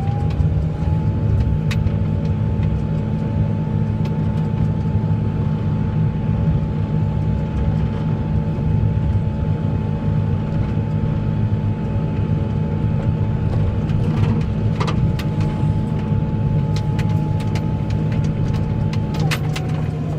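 Snowplow truck's engine running steadily while plowing, a heavy low rumble with a steady high whine over it that drops in pitch near the end.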